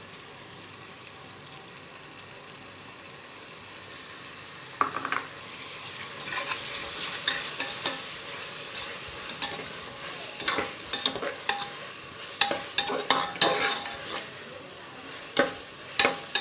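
Onion-tomato masala with ginger-garlic paste frying in oil in an aluminium pressure cooker, with a steady sizzle. From about five seconds in, a metal slotted spoon stirs it, scraping and clinking against the pot in irregular strokes.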